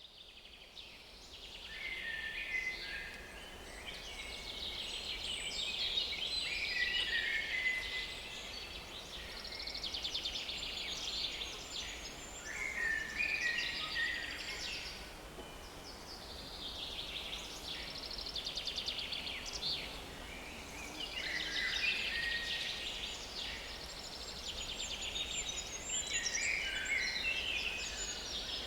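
Small woodland songbirds singing, several at once in overlapping, repeated phrases of trills and chirps. The sound fades in at the very start.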